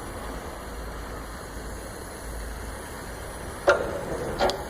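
Steady low hum and hiss, with two sharp knocks near the end, under a second apart.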